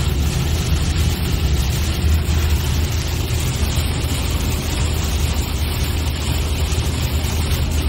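Car driving, heard from inside the cabin: a steady low rumble of engine and road noise under an even hiss.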